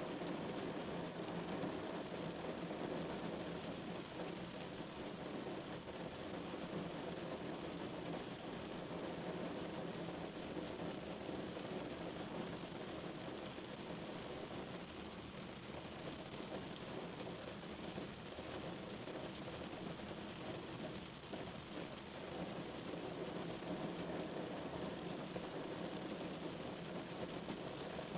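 Steady rain drumming on a car's body.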